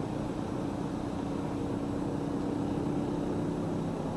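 Steady engine hum and road noise of a car being driven, heard from inside the cabin, with an even low drone.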